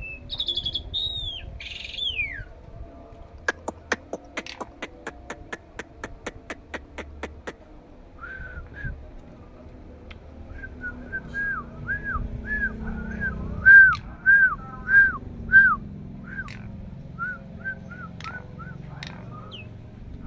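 Starling-type songbird singing: a few falling whistles, then a run of sharp clicks, then a long series of short arched whistled notes, about two a second.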